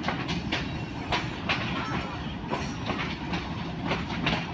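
Passenger train running along the track: a steady low rumble of the wheels on the rails, with irregular clacks as the wheels cross rail joints.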